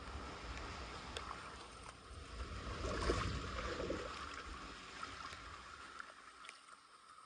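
Water rushing and churning. It swells to its loudest about three seconds in, then dies away.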